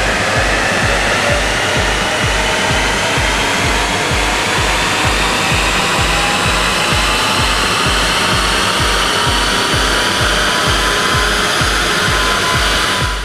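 Range Rover 3.0 SDV6 twin-turbo diesel V6 under full load on a chassis dyno, its pitch climbing slowly and steadily through a long power run, then cutting off suddenly at the end. Electronic music with a steady beat plays underneath.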